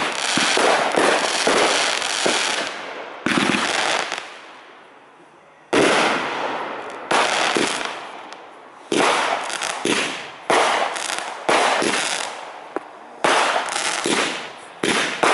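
Aerial fireworks shells bursting one after another, each a sudden bang that fades away over a second or two, about eight in all, with a short lull a little after the middle.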